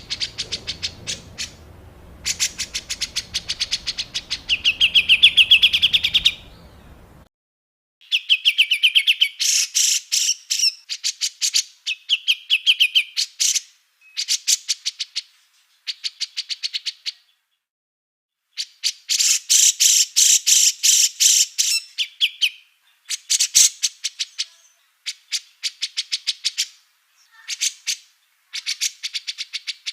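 Small songbird calling in rapid trains of harsh, sharp chattering notes, about eight to ten a second, in bursts of a few seconds broken by short pauses, with some faster trilled runs. A faint low hum sits under the first seven seconds.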